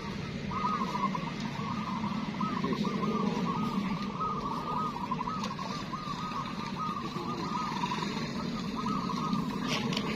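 Many zebra doves (perkutut) cooing at once: a continuous chorus of short, looping, rounded notes overlapping one another, over a low steady hum.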